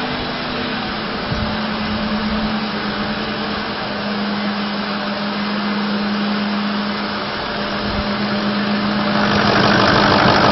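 Ford 6.0-liter Power Stroke turbo diesel V8 idling steadily, getting louder about nine seconds in.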